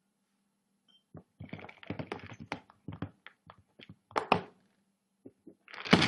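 A quick run of taps and knocks for about three seconds, then a louder thump near the end.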